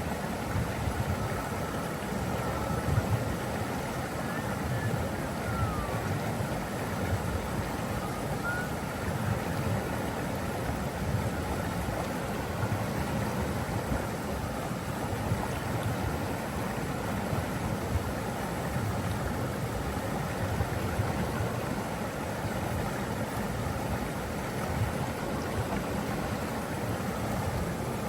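Steady rushing water, a continuous even noise with a heavy low rumble.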